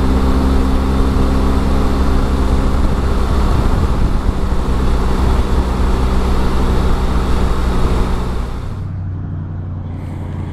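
BMW R1250 GS boxer-twin engine running steadily at cruising speed, with wind and road noise. About nine seconds in, the sound gives way to a much quieter low hum.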